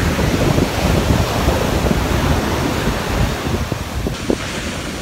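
Ocean surf washing on the shore, with wind buffeting the microphone in a heavy low rumble.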